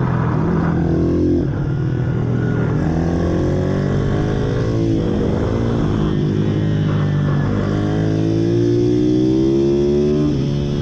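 Several pit bike engines running together, revving up and down as the riders work the throttle. One engine climbs steadily in pitch over a couple of seconds near the end, then drops sharply as it shifts or rolls off.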